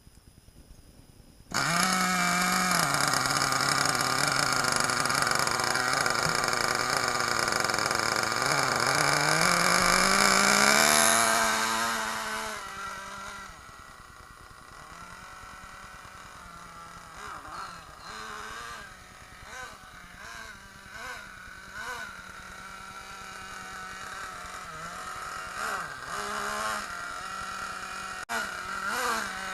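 Small two-stroke nitro glow engine of an HSP Tornado RC monster truck, coming in suddenly and running loud, its pitch sagging and then climbing. From about twelve seconds in it is quieter and keeps blipping up and down in short revs as the truck is driven.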